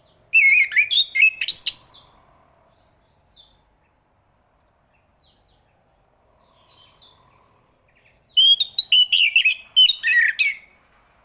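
Chestnut-capped thrush singing: two loud, rapid phrases of warbling, twittering notes mixed with sharp clicks, one starting just after the beginning and one about eight seconds later, with a few faint single notes in between.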